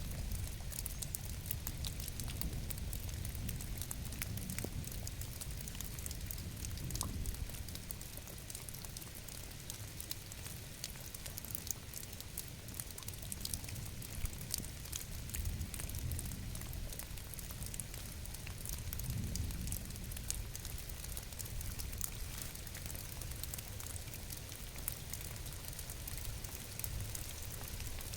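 Steady rain falling, with many small drops ticking and pattering over a low rumble.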